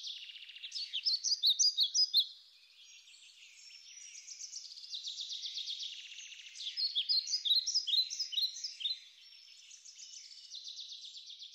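A songbird singing: fast buzzy trills alternating with louder runs of separate chirps, the loudest chirps about a second in and again around seven to nine seconds in.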